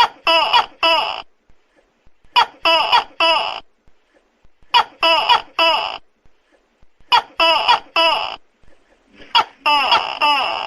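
Tokay gecko calling loudly: short pitched notes in tight groups of three, a group about every two and a half seconds, with a busier run of overlapping calls near the end.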